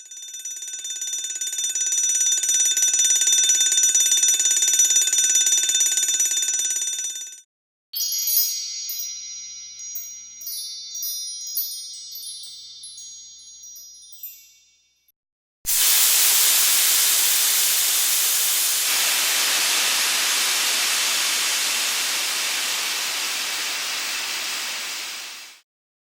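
Three separate sound effects in a row. First comes a steady ringing of several high tones, which swells up and stops at about seven seconds. Next, wind chimes tinkle, with their notes dying away by about fifteen seconds. Last, a loud, steady hiss starts suddenly and cuts off near the end.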